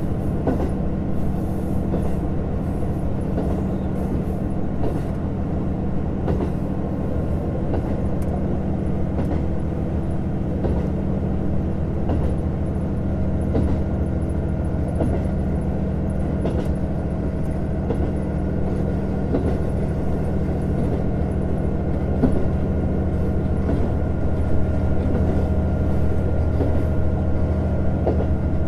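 JR Hokkaido KiHa 150 diesel railcar running along the line, heard from inside the car: a steady diesel engine drone with the rumble of the wheels on the rails. Scattered short clicks come as the wheels pass over rail joints.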